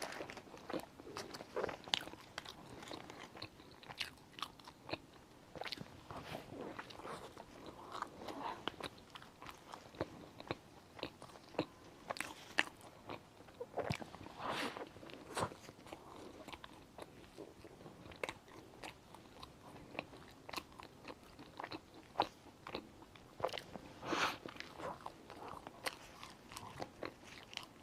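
Close-up eating sounds: bites into a soft pistachio-filled lava bun and chewing, with irregular small wet clicks and smacks.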